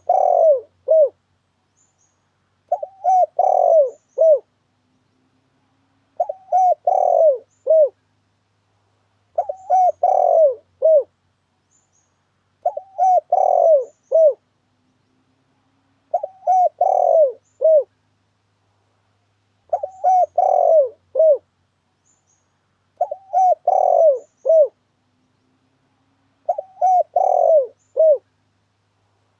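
Spotted dove (tekukur) lure call: the same short phrase of coos repeats evenly about every three and a third seconds, nine times over, with silence between phrases.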